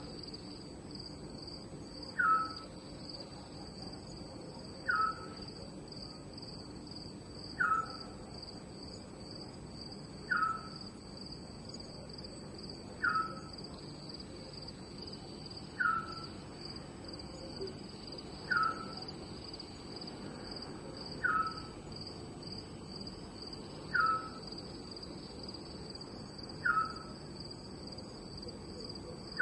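Night ambience: a steady, pulsing chorus of crickets, with a short falling call repeating about every two and a half to three seconds.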